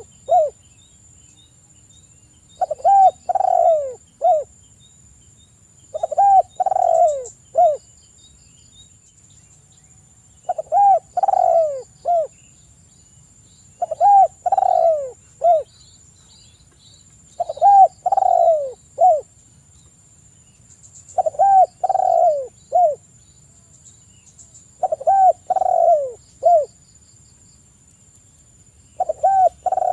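Spotted dove (tekukur) cooing: a short phrase of several coos repeated every three to four seconds, nine phrases in all, with a slightly longer pause about a third of the way through.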